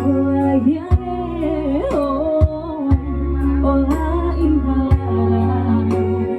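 A voice singing a slow, wavering melody over backing music with a held bass and occasional sharp drum hits.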